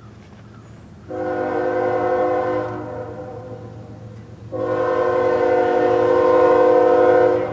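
Diesel locomotive air horn sounding two long blasts of a multi-note chord, the second longer and louder, over a steady low rumble from the train.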